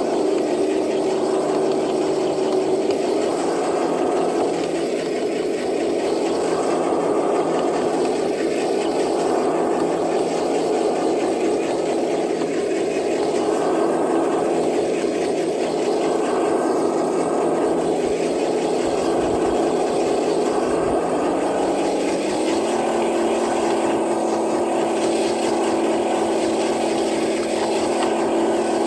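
Stock Traxxas TRX4 RC truck's electric motor and geared drivetrain whining steadily under load as it drags a weighted sled. The pitch shifts about 22 seconds in.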